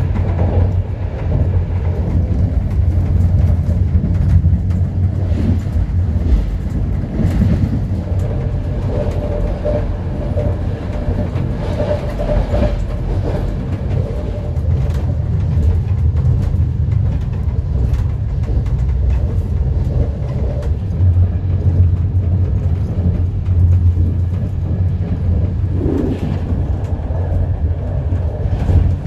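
Ride noise inside a moving České Dráhy EuroCity passenger coach: a steady low rumble from the wheels on the track, with scattered light clicks and rattles.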